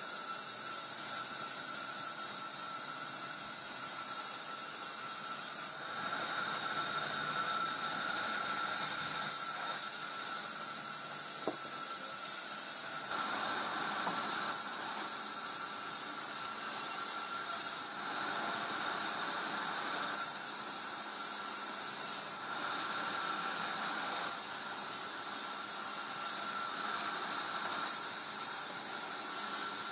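Sawmill saw cutting through a coconut palm log: a steady hissing rasp with a faint high whine. The sound changes abruptly every few seconds.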